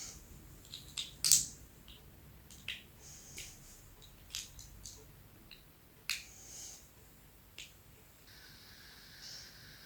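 Small plastic micro building blocks clicking and tapping as they are handled and pressed together: scattered light clicks, the loudest about a second in. A faint steady hiss starts near the end.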